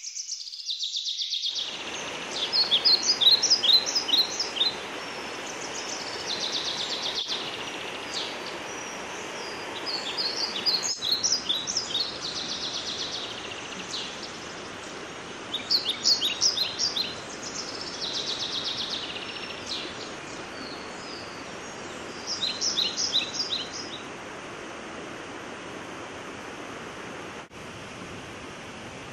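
A songbird singing the same short phrase again and again, one phrase every few seconds, with quick falling notes and a fast trill. Underneath is a steady rushing noise that starts about a second and a half in.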